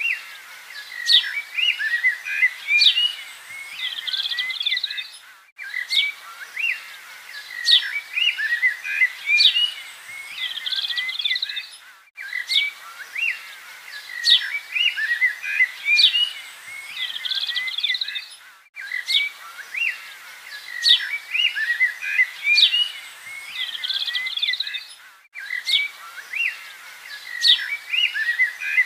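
Many birds chirping and whistling together in a busy chorus. The same stretch of birdsong repeats about every six and a half seconds, with a brief dropout at each join, as in a looped nature-sound track.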